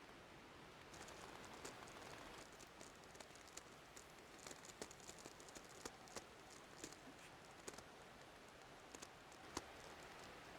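Faint, irregular crackles and small clicks over a soft hiss that comes up about a second in.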